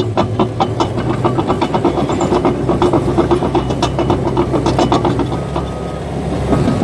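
Caterpillar bulldozer running: a steady diesel engine drone with the steel tracks clanking several times a second. The clanking dies away about five and a half seconds in, leaving mostly the engine.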